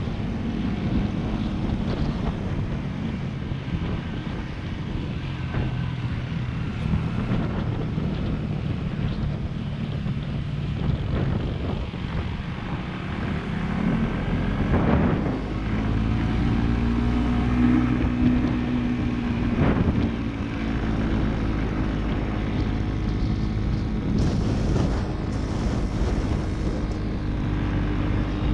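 Motorcycle engine running under way, its note rising and falling with the throttle, with wind buffeting the microphone.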